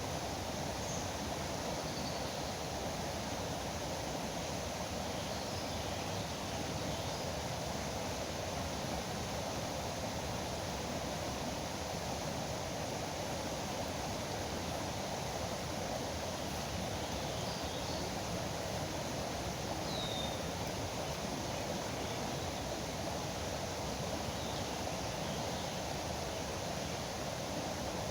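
Steady rush of flowing river water, with a few faint, short bird chirps over it, the clearest about twenty seconds in.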